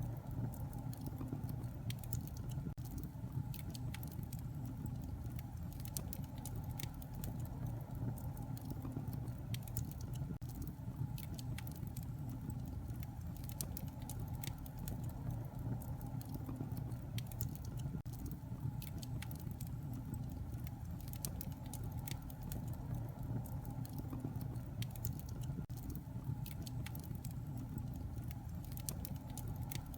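Campfire crackling: a steady low rumble of burning with irregular sharp pops and snaps scattered throughout.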